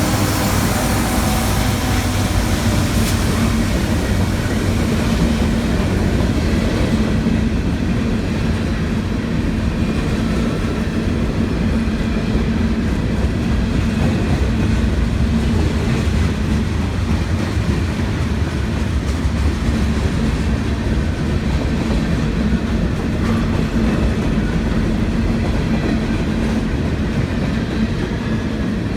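Freight train's cars rolling past, a steady loud rumble of wheels on the rails.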